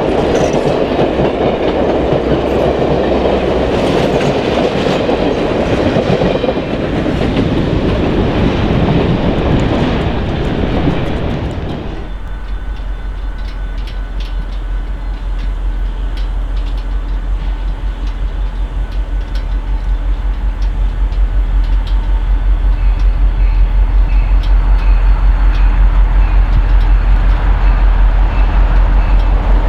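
Train on the rails with wheel clatter. About twelve seconds in the sound changes abruptly to a deep, pulsing low rumble that grows louder.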